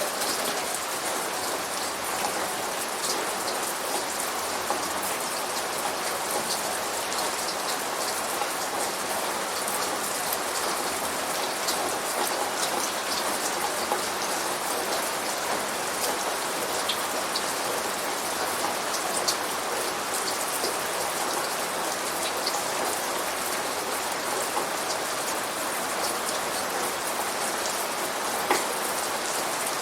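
Steady rain falling, a dense even hiss with scattered individual drops ticking on a surface; no thunder is heard.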